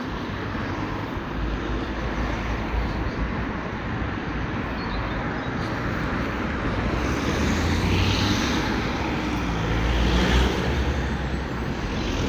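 Street traffic noise: a steady rumble of passing road vehicles, growing louder about two thirds of the way through as vehicles go by.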